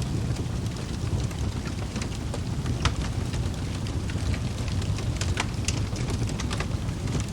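Wood fire burning in a fireplace: a steady low rumble of flame with the logs crackling in scattered sharp pops, a few of them louder.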